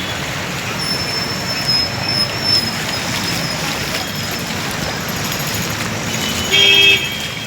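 Street traffic noise, a steady wash of vehicles on a waterlogged road. A thin high squeal runs for about two seconds starting a second in, and a short, loud horn blast comes near the end.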